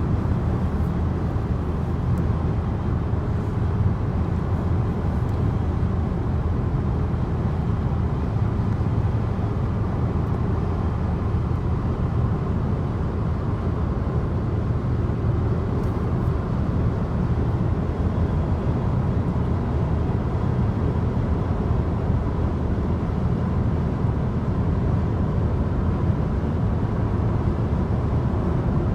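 Steady road and engine noise of a moving car, a constant low rumble.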